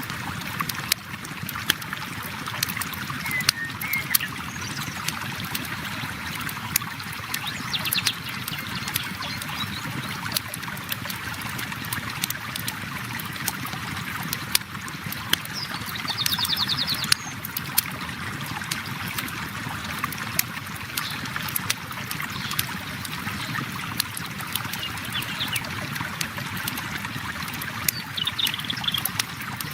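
Steady rush of a flowing river, with frequent sharp pops and crackles from a wood campfire. A few short bird chirps are heard, and a brief bird trill comes about halfway through.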